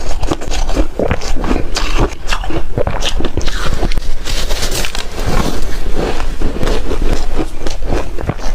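Hard, refrozen ice being bitten and chewed close to the microphone: a continuous run of loud, irregular crunches and cracks.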